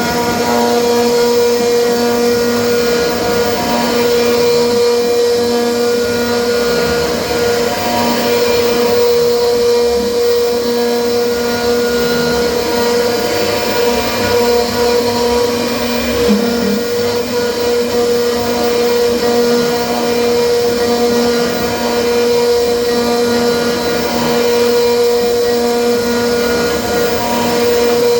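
CNC router spindle running with its end mill cutting aluminum at 2 mm depth per pass: a steady pitched whine over continuous cutting noise, varying slightly in the middle.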